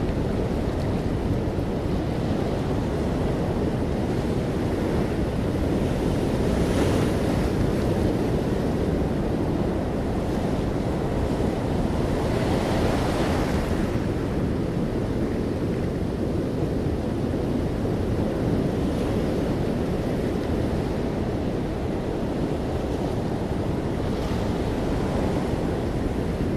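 Ocean waves breaking on a beach: a continuous low surf rumble, with a brighter hissing wash of a wave breaking about 7 seconds in, a larger one around 13 seconds, and a fainter one near the end.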